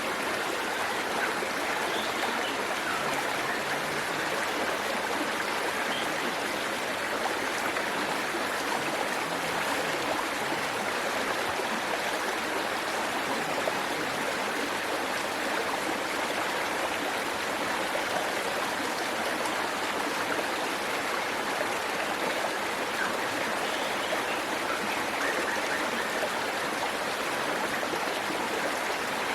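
Waterfall and the stream below it, water rushing steadily and evenly.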